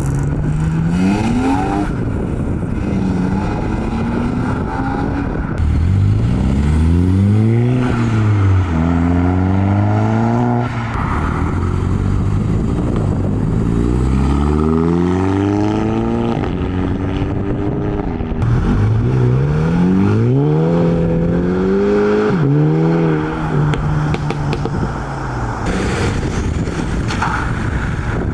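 Modified cars' engines accelerating away one after another: each engine note rises in pitch as it revs up, then drops sharply at a shift or lift-off, about half a dozen times over a steady rumble.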